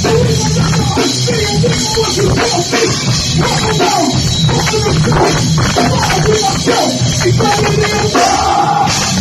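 Loud rock music played by a band, running without a break.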